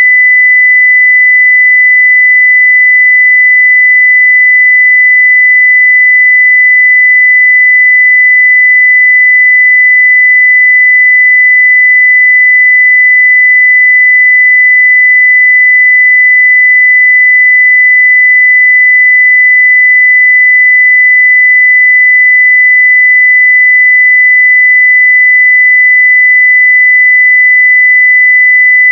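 A steady 2 kHz sine-wave test tone at full level, one pure unchanging pitch.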